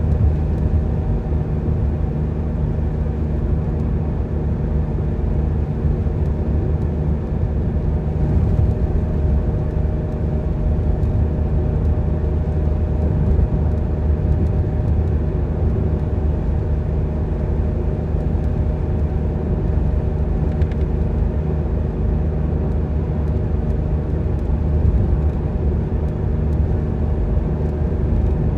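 Car driving along a road: steady engine and road noise, strongest in the low range, with no marked change in speed or pitch.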